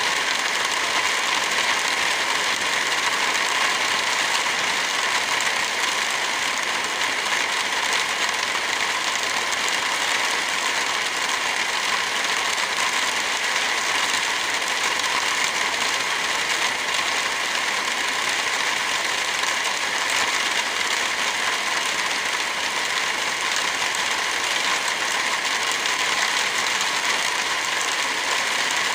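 Steady rain falling, an even hiss with no change in level, with a wood fire crackling faintly through it.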